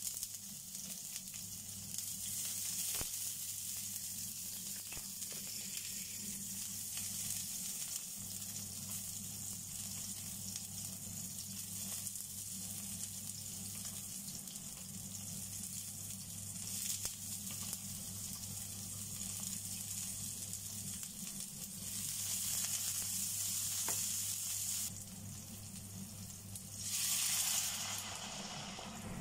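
Chopped garlic, ginger, shallot, spring onion and green chilli sizzling steadily in hot oil in a wok. Near the end a cup of water is poured in, giving a louder rush of sizzling.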